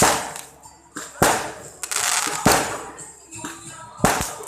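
Fireworks going off: four loud bangs about a second and a half apart, each followed by a fading crackling hiss.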